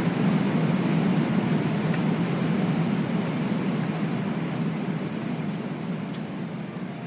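Steady cabin noise of a jet airliner in flight, a low rushing hum of engines and airflow that fades down over the last few seconds.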